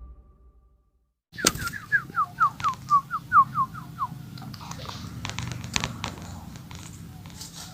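Sooty-headed bulbul singing: a quick run of about a dozen short, downward-slurred whistled notes, starting about a second and a half in and lasting some two and a half seconds, followed by scattered clicks and taps.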